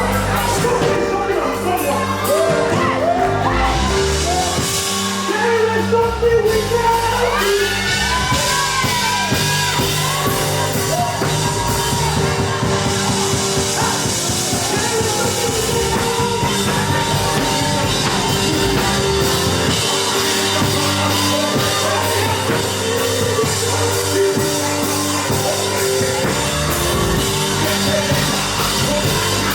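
Live worship band music with voices singing over it.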